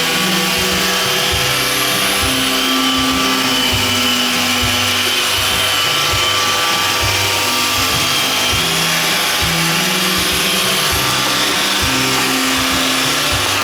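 iRobot Roomba 610 robot vacuum running its cleaning cycle: the vacuum fan and brush motors whir steadily with a high whine.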